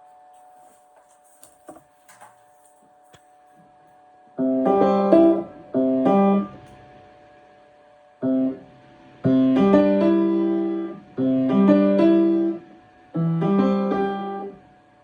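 Piano played in short separate phrases with pauses between them, a passage being practised and restarted. A few faint clicks come before the playing begins about four seconds in.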